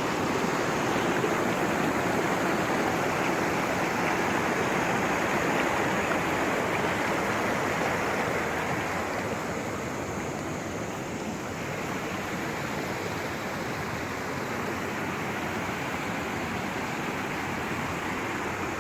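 Steady rushing of a fast mountain river or stream, a little quieter after about ten seconds.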